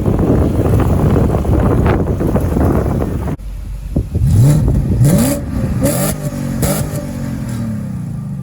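BMW E39 540i's 4.4-litre V8 running hard under load. After an abrupt cut, it is revved in several quick throttle blips, each rising in pitch and falling back, with the revs winding down near the end.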